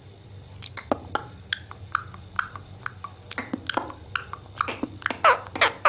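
A parrot making a quick series of short clicks and chirps, with a few downward-sliding squeaks near the end.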